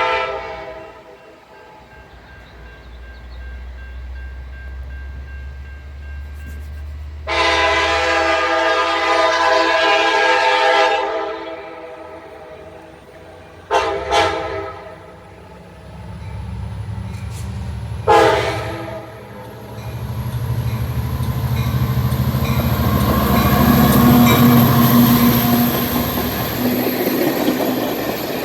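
Amtrak Piedmont passenger train's locomotive sounding its multi-chime horn in a series of long and short blasts for the crossing, over a low diesel rumble. The train then goes by with a growing rush of wheel and rail noise.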